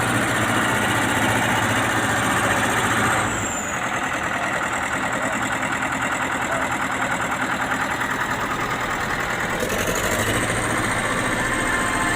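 Caterpillar 120G motor grader's diesel engine running. About three seconds in it settles to a lower speed, its high whine falling, and near the end it speeds up again, the whine rising.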